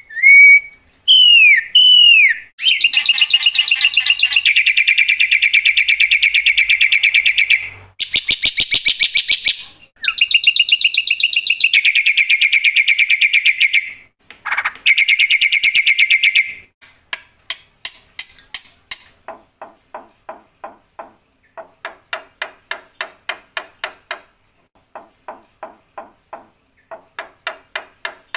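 Black-winged myna (jalak putih) singing loudly. It opens with a few swooping whistles, then gives long, rapid buzzing trills, and from about halfway it switches to softer bursts of quick chattering notes.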